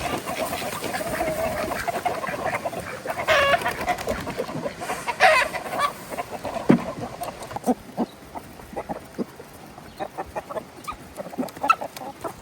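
Chickens clucking, with two louder calls about three and five seconds in, followed by scattered light clicks and taps.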